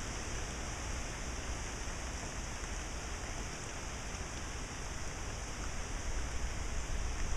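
Steady hiss of rain and wind through the trees from a passing hurricane, with low wind rumble on the microphone growing stronger near the end.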